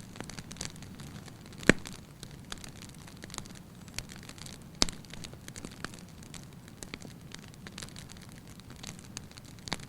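Wood fire burning in a fireplace: a steady low hiss with scattered crackles and sharp pops, the loudest pop a little under two seconds in and another near five seconds.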